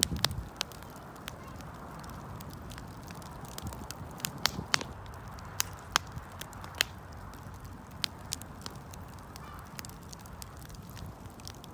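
Wood fire burning: irregular sharp crackles and pops, a few much louder than the rest, over a steady low rumble.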